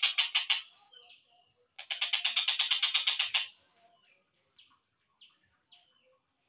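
Collared kingfisher (tengkek buto) calling: a rapid, harsh chattering trill of about ten notes a second, breaking off and coming again about two seconds in, followed by a few short, separate downslurred notes.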